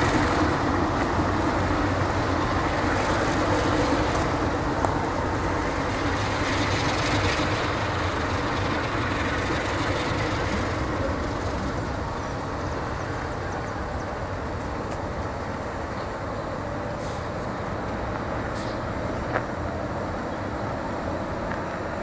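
Diesel locomotive and passenger train rumbling through station shunting moves: louder for roughly the first half, then settling to a steadier engine drone. A single sharp click comes near the end.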